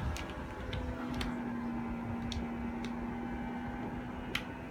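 Vacuum bag sealer running its cycle: a steady low motor hum sets in about a second in and holds, with a few light clicks from the machine's lid and buttons.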